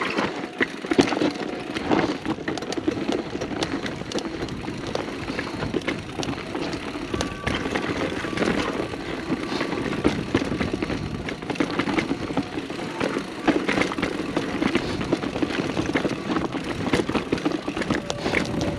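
Mountain bike riding down rough dirt singletrack: tyres crunching over dirt and rocks, with the bike rattling and clattering over the bumps.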